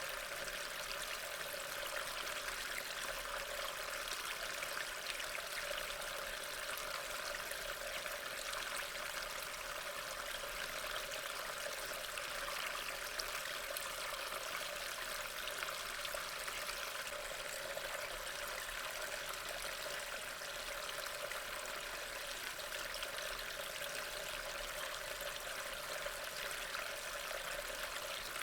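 Steady rainfall ambience: an even, unbroken hiss of falling rain.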